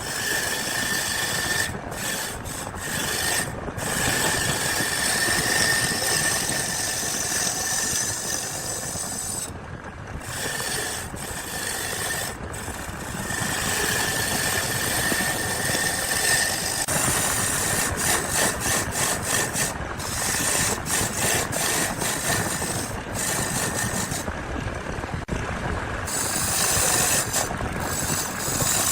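A tool working wood, a continuous rasping, rubbing noise with a faint steady high tone, broken by many brief pauses.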